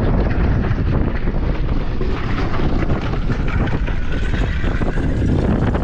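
Strong wind buffeting the microphone: a loud, steady, gusting rumble.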